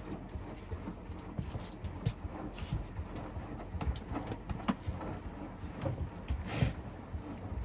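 Hoover DXOA610AHFN-80 front-loading washing machine in its wash phase, the drum turning bed linen through the water. The sound is a low rumble with irregular swishes and soft knocks as the load drops.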